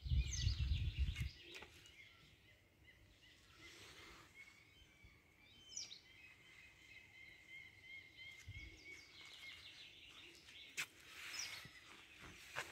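Songbirds singing in a forest: scattered high chirps and a long run of quick repeated notes through the middle. A loud low rumble on the microphone fills the first second.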